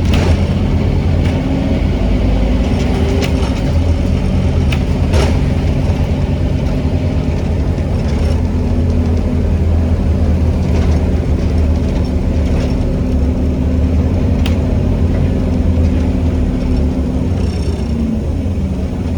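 Scania N270UD OmniCity double-decker bus under way, heard from on board: its five-cylinder diesel running steadily with rattles and knocks from the body. Near the end the engine note falls slightly as the bus eases off.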